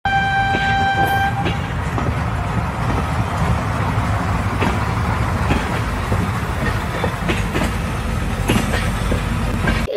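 A train horn sounds one steady note for about a second, then a train runs on its rails with a steady low rumble and irregular clacks of the wheels over the rail joints.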